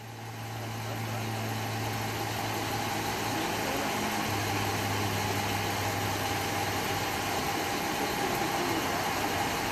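Patrol car engine idling steadily: a low hum under an even hiss, the hum's pitch shifting slightly about four seconds in.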